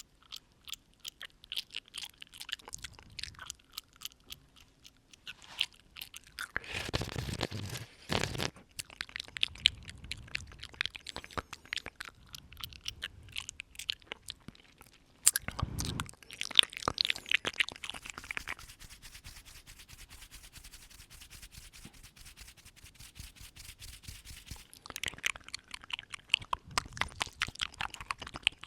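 Close-up mouth sounds: rapid wet clicks and smacks of lips and tongue right at the microphone. Twice, about a quarter of the way in and again just past halfway, a breath is blown onto the microphone.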